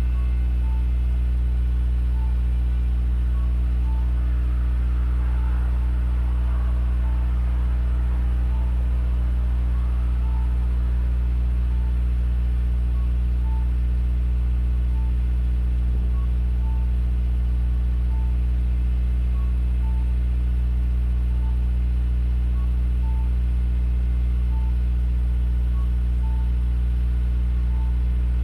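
Car engine idling steadily on a cold-morning warm-up, heard at the tailpipe through an EXAS EVO Tune aftermarket muffler as a deep, even exhaust rumble. A faint light tick repeats about once a second.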